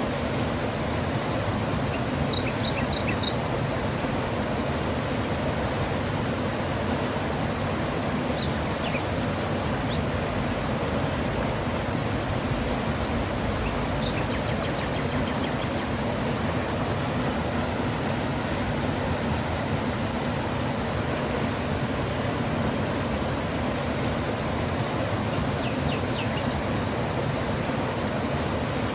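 Mountain river flowing: a steady rush of water. A high chirp pulses evenly, two or three times a second, through most of it, stopping briefly and starting again near the end.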